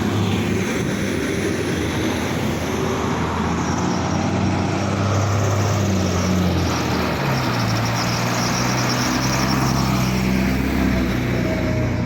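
Road traffic close by: motor vehicle engines running and passing, with a steady rush of tyre and road noise. A low engine note changes pitch about seven seconds in.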